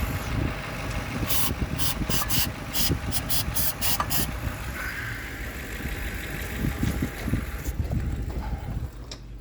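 Starter cranking the 1964 Mercury Comet's engine over in uneven pulses without it catching, stopping about nine seconds in. Early on there is a quick run of about ten short hisses.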